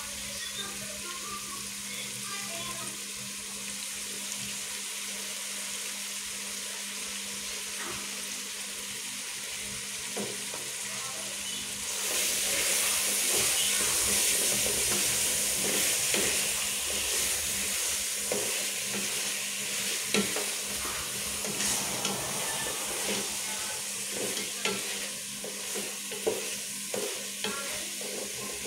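Chicken, onions and ginger-garlic paste frying in oil in a pot, sizzling steadily as a wooden spatula stirs them. The sizzle grows louder about twelve seconds in, when fresh mint and coriander leaves go in. Near the end the spatula scrapes and knocks against the pot.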